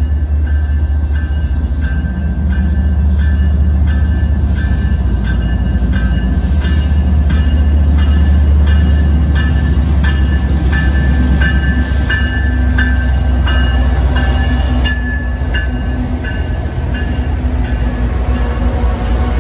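Two GE diesel-electric freight locomotives, a BNSF ES44C4 leading a C44-9W, pass close by at speed with a heavy, steady low rumble. Sharp ringing ticks repeat about every 0.7 s, loudest in the middle and fading after about 15 s as the double-stack container cars begin rolling past.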